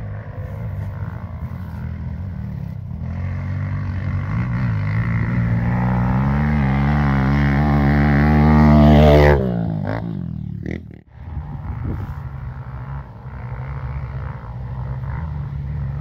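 Off-road dirt bike engine running, then revving up with rising pitch and loudness for a few seconds before breaking off suddenly about nine seconds in. Steady engine running picks up again after a short gap.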